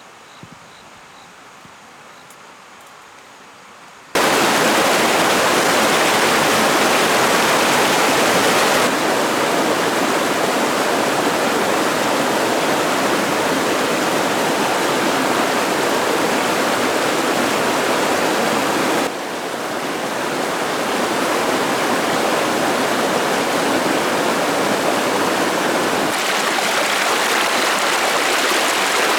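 Faint outdoor ambience, then about four seconds in, a sudden switch to loud, steady rushing water, like a stream or small waterfall. Its level and tone shift abruptly three times.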